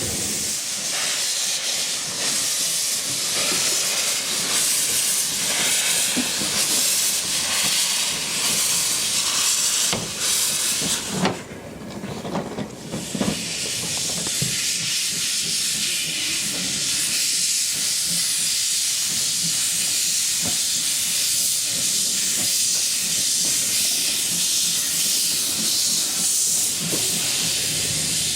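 Steam locomotive letting off steam: a loud, steady hiss that drops away briefly around eleven seconds in, with a few knocks, then comes back.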